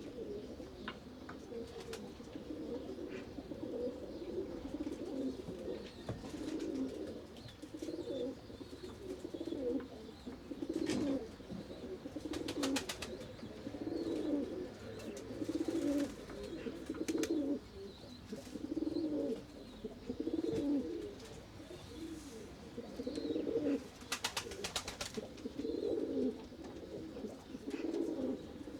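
Domestic pigeons cooing over and over, low calls following one another about once a second, with a few short runs of rapid clicks.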